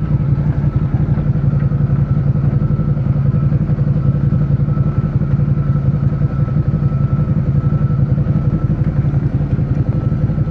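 Suzuki SV650's V-twin engine running at a steady speed, loud and even, with no revving.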